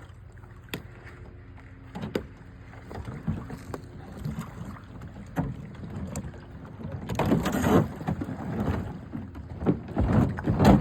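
Knocks and scrapes of a small plastic boat being handled at the water's edge among ice. There are a few sharp knocks at first, then louder rough scraping and splashing from about seven seconds in.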